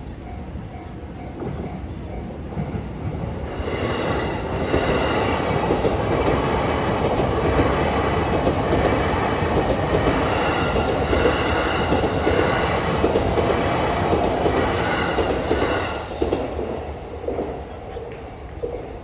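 An electric commuter train on the Saikyo Line passing over the level crossing. It builds from about two seconds in, is loud for about twelve seconds, and fades after about sixteen seconds. The crossing's warning bell rings before it arrives and is heard again as it fades.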